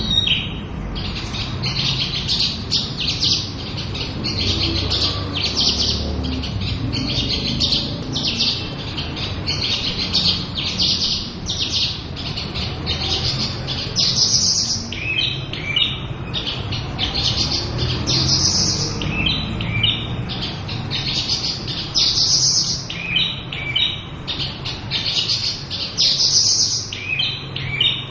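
Javan bush lark (branjangan) singing continuously: a fast, unbroken stream of varied chirps and trills, with runs of short repeated notes in places.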